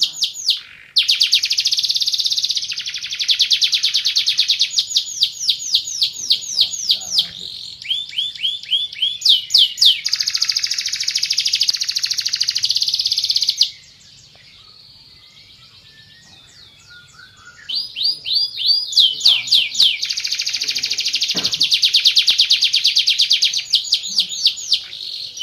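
Domestic canary of the Van Hesterling line singing: long, high-pitched rolls of rapidly repeated trill notes. The song stops for about four seconds past the middle, then resumes with more fast trills.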